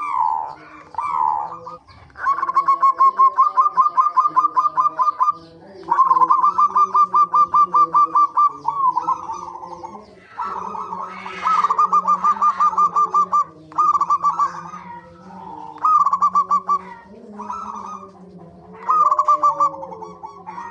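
Zebra doves cooing: rapid runs of short, evenly repeated notes, each run lasting one to three seconds and separated by short pauses, opening with a few falling notes. A faint low steady drone sits underneath.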